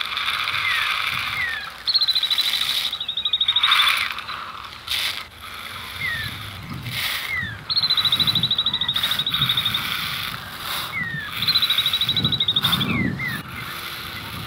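Birds calling: a high, rapid buzzing trill about two seconds long, heard three times, with short downward chirps in between.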